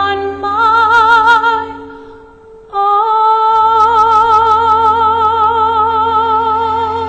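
A woman singing the closing phrase of a slow ballad over soft sustained accompaniment. The phrase ends on one long held high note with wide, even vibrato.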